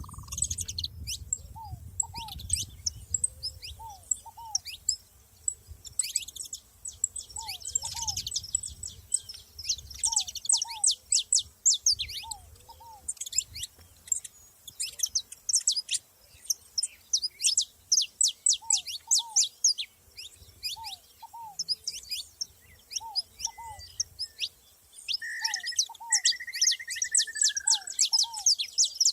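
Saffron finches singing and chirping: dense runs of rapid, high, downward-sweeping notes. A lower two-note call repeats every second or two, and a short whistled note comes near the end.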